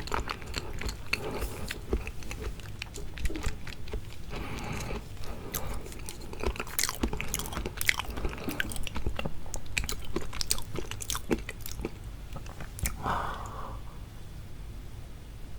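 Close-miked chewing and biting of raw seafood: a dense run of quick wet mouth clicks, thinning out and getting quieter near the end.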